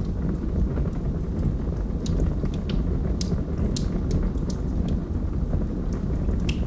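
Logs burning in a fireplace: a steady low roar of flame with scattered sharp crackles and pops.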